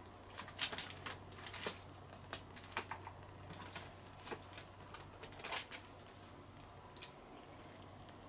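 Irregular light clicks and scuffs, some in quick clusters, with one sharp click near the end, over a faint steady hum.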